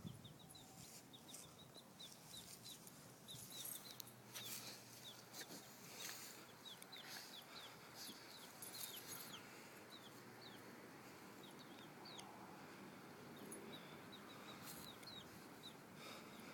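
Baby chicks peeping faintly: many short, high, falling cheeps repeated throughout, with a few soft rustles around four to six seconds in.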